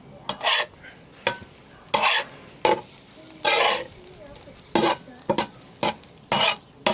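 A spatula scraping and tapping on a hot pan in irregular strokes, a dozen or so, a few of them longer scrapes, while eggs fry in bacon grease underneath.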